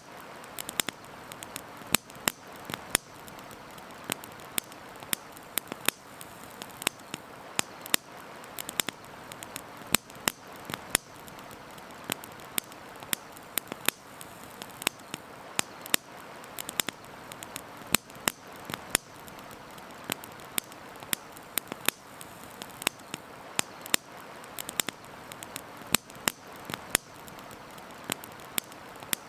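Wood campfire crackling, with frequent sharp pops and snaps at irregular intervals, several a second, over a steady rushing hiss.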